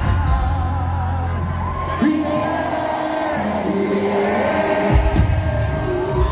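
Cuarteto band playing live: held melody lines over a heavy bass, the bass dropping out about two seconds in and coming back near the five-second mark.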